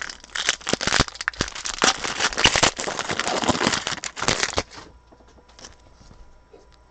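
A trading-card pack wrapper being opened and crinkled in the hands: a dense crackling for about four and a half seconds that then stops, leaving a few faint handling sounds.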